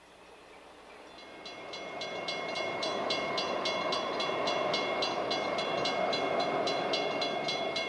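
Grade-crossing bell ringing rapidly while a diesel passenger train approaches, its rumble building steadily.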